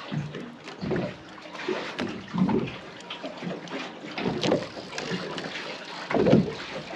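Water slapping and sloshing against the hull of a small fishing boat in irregular surges about once a second.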